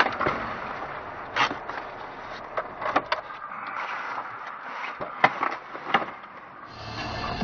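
Dashcam audio inside a car just after a collision: a low steady cabin and road noise broken by a few separate knocks and clicks. Near the end a different steady hum cuts in.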